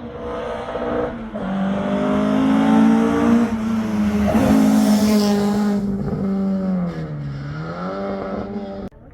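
Rally car engine at high revs under hard acceleration, pitch climbing through the first half, with a burst of hiss from tyres on the road in the middle; near the end the revs drop briefly and pick up again before the sound cuts off suddenly.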